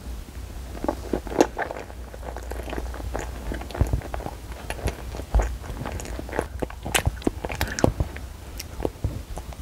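A child chewing and biting a soft yellow jelly ball close to a clip-on microphone: irregular wet mouth clicks and chewing noises throughout.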